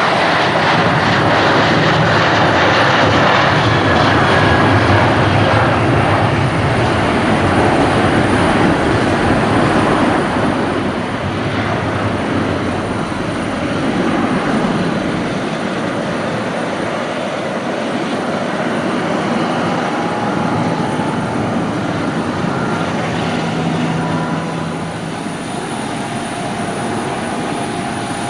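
Airbus A319 twin jet engines running loud, a steady rushing noise that is strongest for the first ten seconds or so and then gradually fades as the airliner moves away.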